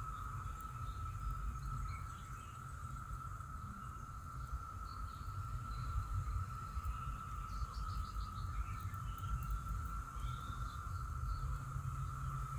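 A steady, unbroken drone of a distant chorus of Brood X periodical cicadas. Scattered short bird chirps and a low rumble sit under it.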